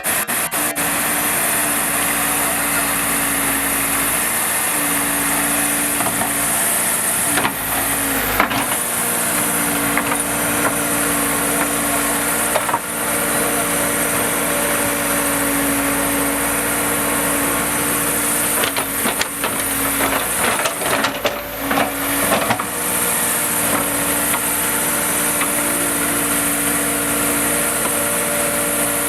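Diesel engine of a heavy earthmoving machine running steadily, with a few knocks and a spell of clattering partway through.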